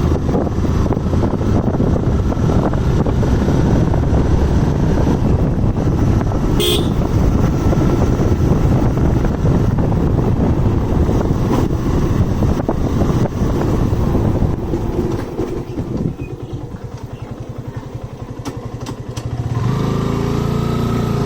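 Motorcycle riding on a road: engine running under wind rumble on the microphone, with a brief high-pitched horn toot about seven seconds in. About sixteen seconds in it quietens, the engine's firing pulses audible as it slows, then it picks up again near the end.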